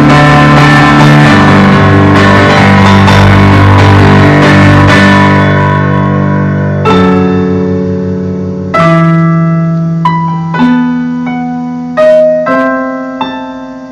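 Solo piano played slowly. Full, sustained chords ring for the first several seconds. From about seven seconds in come sparse single chords and notes, struck a second or so apart and each left to fade, as the piece winds down to its close.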